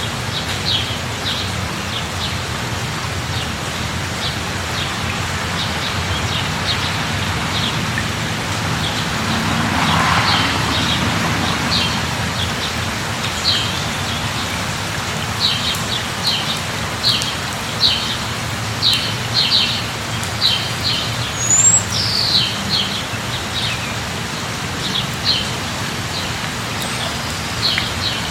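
Steady light rain falling, with birds chirping in short high calls that come more often in the second half. There is a brief swell of noise about ten seconds in.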